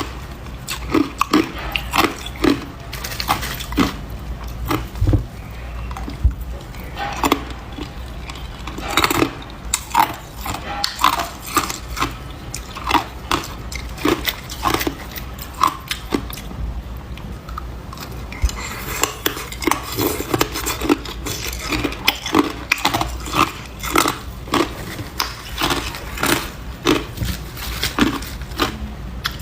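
Ice being bitten and chewed close to the microphone: a run of sharp crunches and cracks, a few each second, with a short lull a little past halfway.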